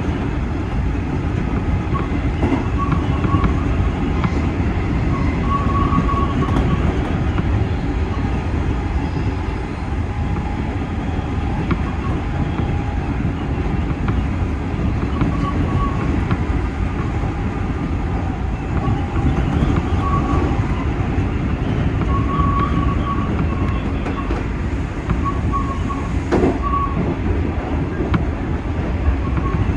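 JR 201 series electric train running along the line, heard from the cab: a steady rumble of wheels on rail, with faint squeal-like tones coming and going and a short knock late on.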